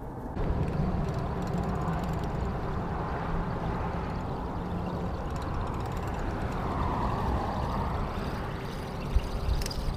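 A motorboat's engine running steadily, a low hum under a wash of noise whose pitch sweeps down and back up over several seconds, as a moving boat makes.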